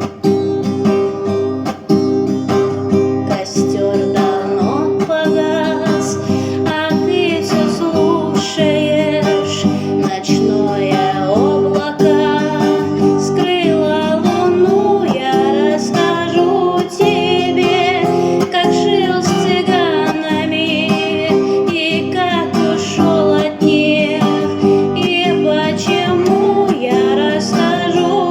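Acoustic guitar playing chords, with a voice singing the melody over it from about four seconds in.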